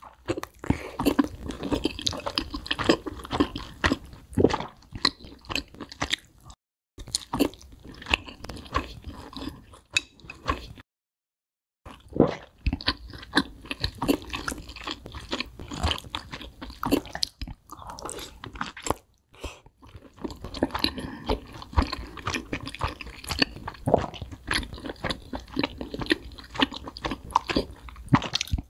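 Close-up chewing and crunching of fried chicken wings, with crisp crackles from the breaded skin, broken a few times by brief dead silence.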